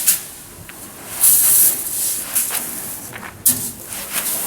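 Grain in a heap rustling and hissing in short bursts as it is disturbed, the loudest burst a little over a second in, with a sharper rustle near the end.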